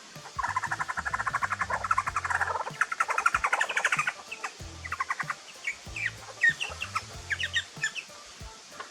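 Australian magpies and butcherbirds calling: a long, rapid, pulsing chatter for the first four seconds, then scattered short chirps. Background music with a low bass line runs under them.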